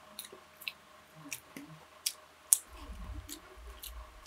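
Close-up eating sounds: chewing with a string of sharp wet clicks and smacks about every half second, the loudest about two and a half seconds in, and a low rumble through the second half.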